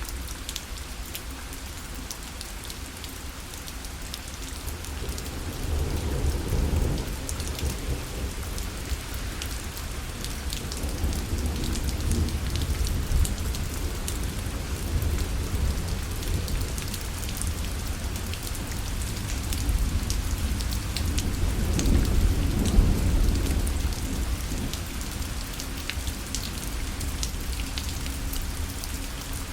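Rain falling on a parasol, a steady patter of drops on the canopy. Low rolling thunder swells up about six seconds in and again, longer, around twenty seconds in.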